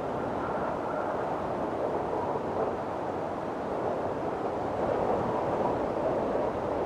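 Strong wind blowing steadily in a storm, a continuous rushing noise that swells slightly louder a few seconds in, with a faint whistling tone riding on top.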